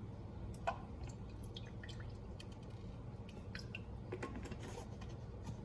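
Faint drips and small clicks as chunks of garlic are spooned into a pot of water, with one sharper click about a second in, over a low steady hum.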